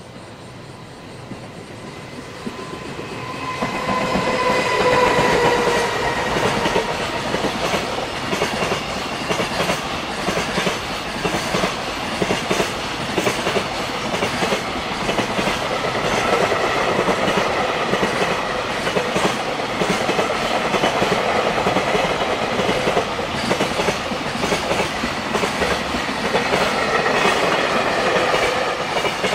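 Electric-hauled container freight train passing close by. The noise swells as the locomotive arrives a few seconds in, with a brief slightly falling tone, then a long run of container wagons clatters over the rail joints in quick repeated clicks. The sound drops away near the end as the last wagons go by.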